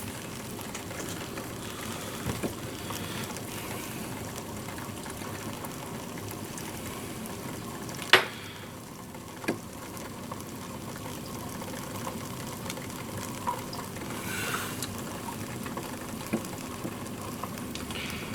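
Keurig coffee machine brewing, pushing hot water through a pod into a cup: a steady watery bubbling hiss, with a sharp click about eight seconds in.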